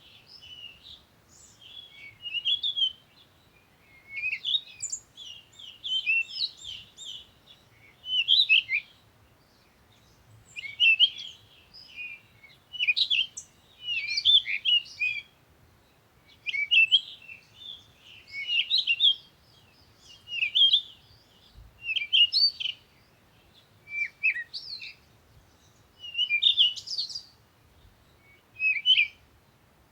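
A songbird singing: short phrases of quick high chirps and warbles, repeated about every two seconds with brief pauses between.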